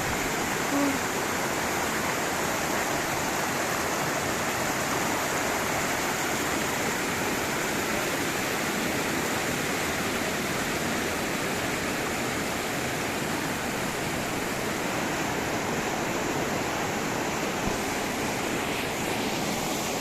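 Steady rush of river water tumbling over rocks, an even unbroken roar of flowing water.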